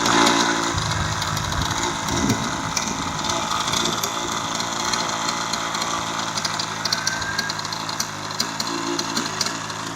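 O.S. 46 MAX model glow engine, a small two-stroke, running steadily.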